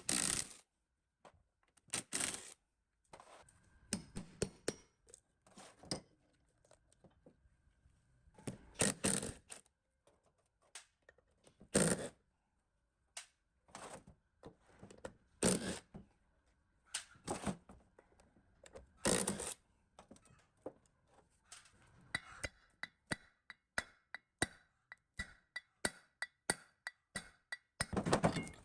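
Irregular knocks, taps and clicks of tools and metal pump parts being handled on a workbench, with a handful of sharper knocks standing out among lighter clatter.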